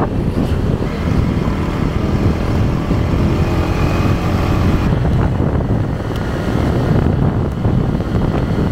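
Wind buffeting the microphone on a moving motorbike, with the bike's engine running steadily underneath.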